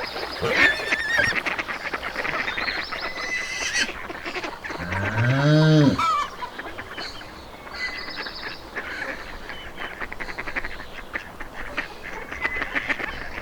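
A cow's single long moo, rising then falling in pitch, about five seconds in, amid busy, repeated honking calls.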